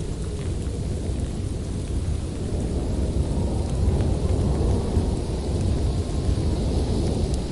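Howling winter wind blowing hard, a deep, steady rumble that swells a little a few seconds in.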